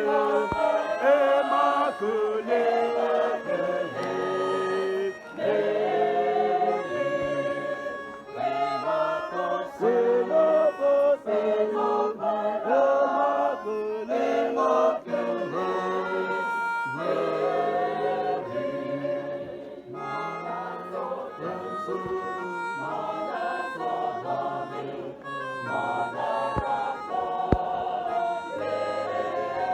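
A choir singing a hymn, many voices together.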